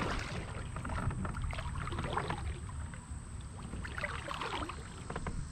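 Low-level ambience aboard a fishing kayak on calm water: a steady low rumble with faint small clicks and water sounds around the hull.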